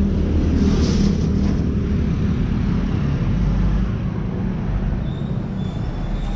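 Street traffic: a motor vehicle's engine running close by, a steady low hum.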